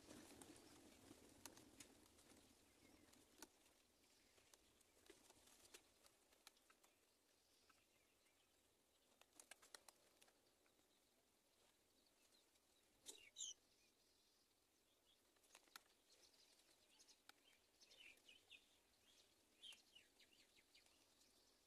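Near silence with faint scattered clicks and a few brief, high bird chirps: one sliding call about thirteen seconds in and a short cluster near the end.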